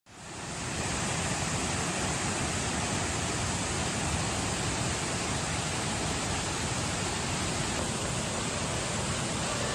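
Steady rushing of a waterfall, fading in over the first second and then holding level.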